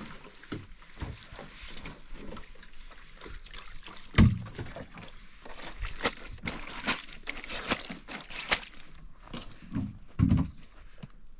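Water sloshing and pouring in irregular splashes, with two heavy thumps, about four seconds in and near the end.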